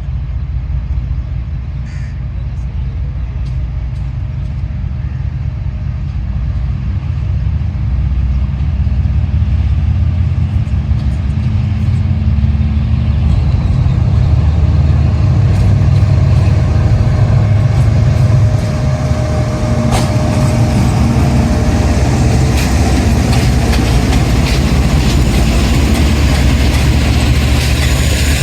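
Train running close by: a loud low rumble that builds over the first half, with scattered clicks and clatter growing toward the end.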